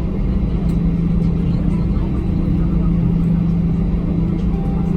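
Airbus A321 cabin noise while taxiing: a steady low rumble with an even engine hum running underneath.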